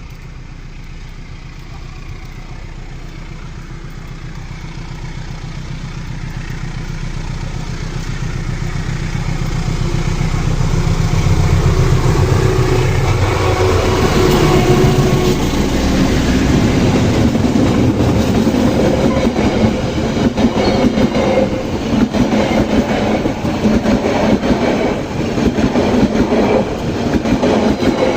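CC201 diesel-electric locomotive approaching and passing, its engine drone growing steadily louder over about twelve seconds. After it goes by, the passenger carriages roll past with a dense, continuous clatter of wheels on rail.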